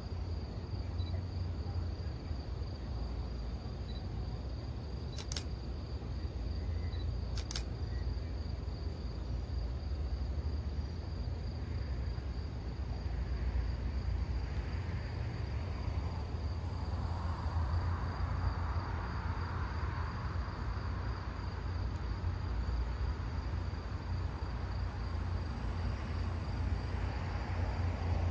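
Crickets chirping steadily over a low rumble, with the sound of a train approaching in the distance growing from about halfway through. Two sharp clicks come about five and seven seconds in.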